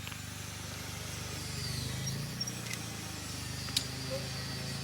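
An engine running steadily at an even speed, with a few light clicks over it.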